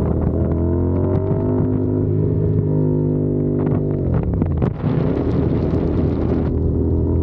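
CFMOTO 450SR's parallel-twin engine running under way: its pitch climbs in the first second or so, holds, then drops briefly about four seconds in before picking up again. Wind rushes over the microphone for a couple of seconds after the dip.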